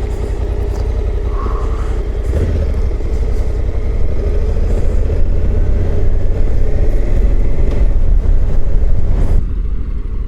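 Honda Africa Twin motorcycle riding along, its parallel-twin engine running under a heavy low rumble of wind on the microphone. It grows louder from about two seconds in, then drops off suddenly near the end.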